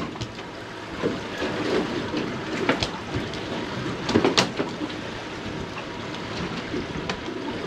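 Wind and water noise around a small boat at sea, with a few sharp knocks and splashes, one a little under three seconds in and a short cluster about four seconds in.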